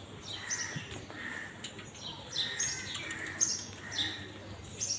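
Birds chirping: short calls repeated about once a second, each with a high note sliding downward.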